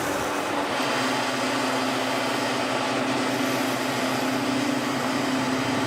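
A machine's engine running steadily, a constant drone with a low hum and no change in pace.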